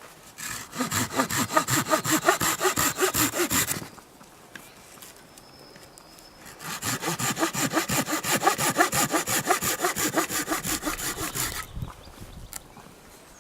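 Hand saw cutting through wood with quick, regular back-and-forth strokes, in two bouts of about three and five seconds with a short pause between.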